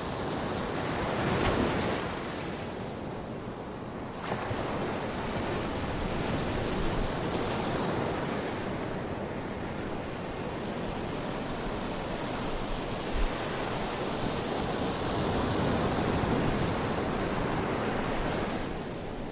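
Sea waves breaking and washing up a beach: a continuous rush that swells and ebbs, with one wave breaking abruptly about four seconds in and larger surges near the start and the end.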